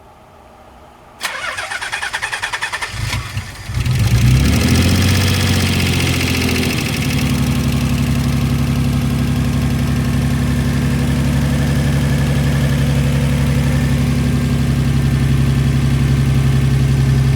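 Nissan 300ZX Twin Turbo's VG30DETT V6 being cranked by the starter for a couple of seconds, catching about four seconds in and running at a fast idle, then settling into a steady idle about seven seconds in. The idle carries the ticking of the hydraulic lifters, the lifter tick this engine is known for.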